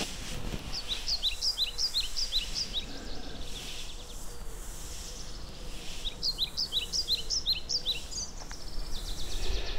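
A songbird singing two short phrases of quick, repeated high notes, the second phrase about five seconds after the first, over faint steady outdoor background noise.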